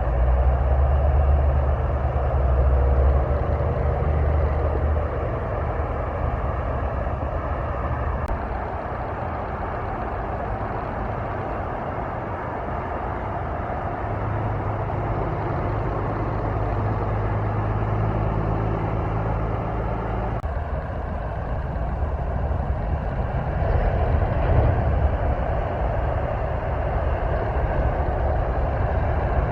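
Road traffic with heavy diesel trucks driving past: a low engine drone over steady tyre and road noise. The drone is strongest in the first few seconds, holds a steady hum in the middle before cutting off around twenty seconds in, and swells again a few seconds later.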